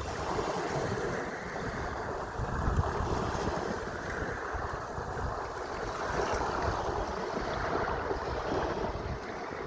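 Sea waves washing and surging, with wind buffeting the microphone.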